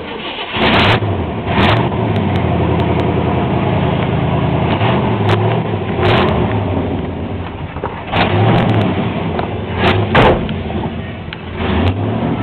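Chevrolet Caprice engine running, revved in several short throttle blips.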